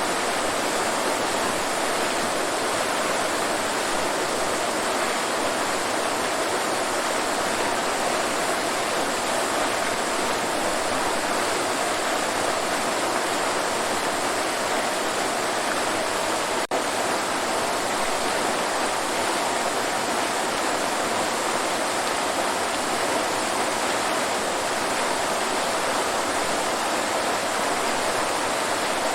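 Waterfall rushing steadily, an even wash of falling water, with a split-second dropout about two-thirds of the way through.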